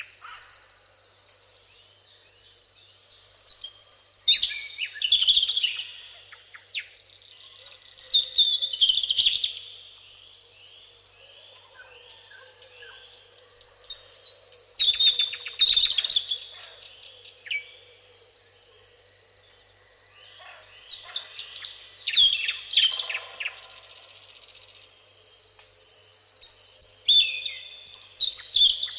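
Several songbirds singing in a summer meadow, phrases of fast trills and chirps coming every few seconds, over a steady high-pitched hum.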